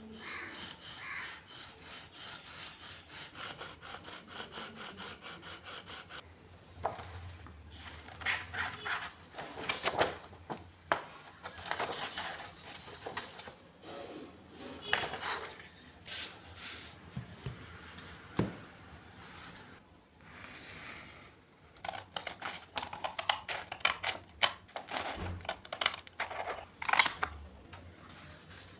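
Knife blade being scraped back and forth against an abrasive surface in sharpening strokes. The strokes are rapid and even at first, about two a second, then become more irregular, with scattered sharp clicks.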